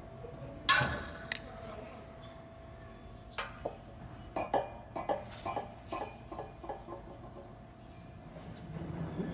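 Scattered metallic clinks and knocks, the loudest about a second in and a quick cluster from about four and a half to seven seconds in, with a faint steady hum during the first few seconds.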